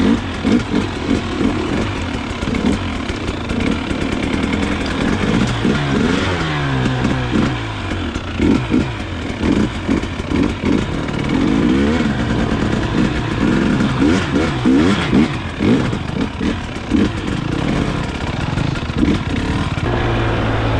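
Two-stroke dirt bike engine revving hard on a rocky climb, its pitch rising and falling again and again as the throttle is worked.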